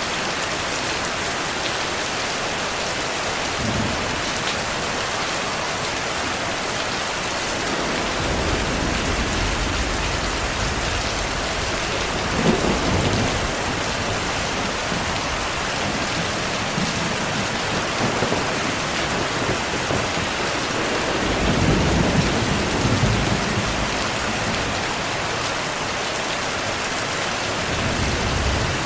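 Steady heavy rain with thunder rumbling in the low end, the louder rolls swelling about twelve seconds in and again around twenty-two seconds.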